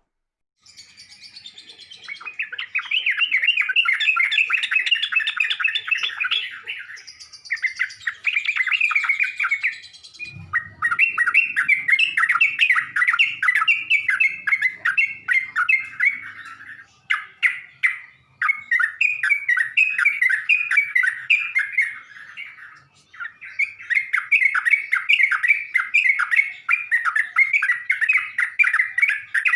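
Yellow-vented bulbul (trucukan) song played as a lure call: fast, bubbling chattering phrases in long bouts broken by a few short pauses.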